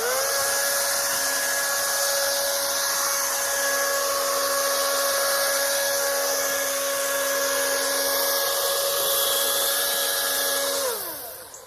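Toro chainsaw running: it spins up right at the start, holds a steady high-pitched whine at full speed, then winds down in pitch and stops near the end.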